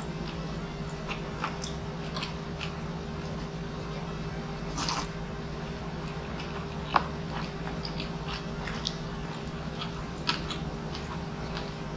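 A man chewing a mouthful of rice and breakfast meats, close to the microphone, with scattered wet mouth clicks and smacks. A brief louder noisy sound comes about five seconds in and a sharp click about seven seconds in, over a steady low hum.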